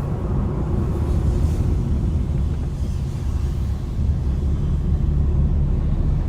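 Car driving along, with a steady low rumble of engine and tyre noise heard from inside the car and faint swells of higher hiss.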